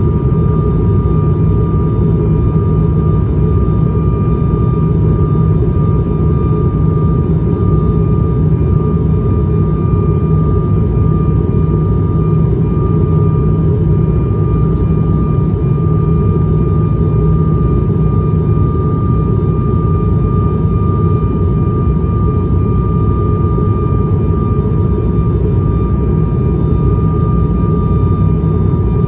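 Steady cabin drone of an ATR 72-500's turboprop engines and propellers, heard from inside the passenger cabin: a heavy low hum with a steady high whine over it and no change in pitch or level.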